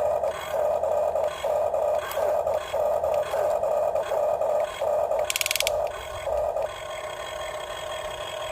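Small electric gear motors of a Huina 1550 remote-control toy excavator whining in short, repeated bursts as it is worked, with a brief buzzing rattle a little past the middle.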